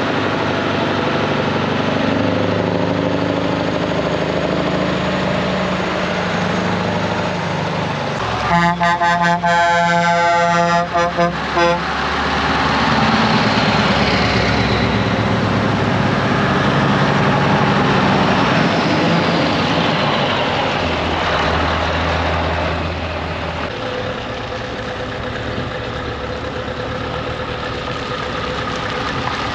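V8 lorry engines running as trucks pass in convoy. About eight seconds in, an air horn sounds in a run of short blasts lasting about three seconds.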